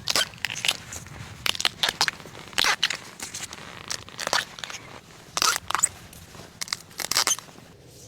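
Irregular crunching and crackling of dry plant matter, many sharp snaps a second, as dry bamboo litter and stalks are trodden on or broken.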